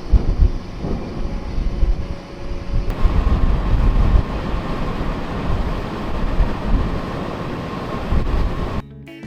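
Steady low rumble of a large car ferry under way, with irregular low buffeting like wind on the microphone. The sound changes abruptly about three seconds in, and guitar music starts near the end.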